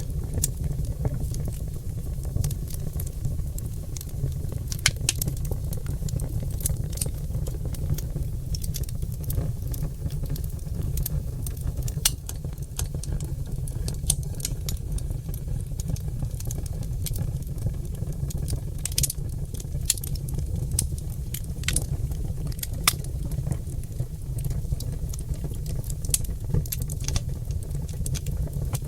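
Oak logs burning in a fireplace, crackling and popping in irregular sharp clicks over a steady low rumble.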